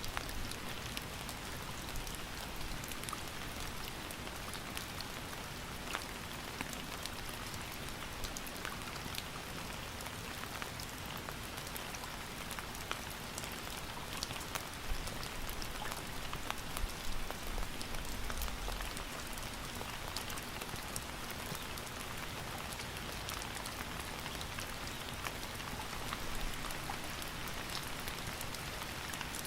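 Steady rain falling, a constant hiss with the sharp ticks of individual drops hitting a surface.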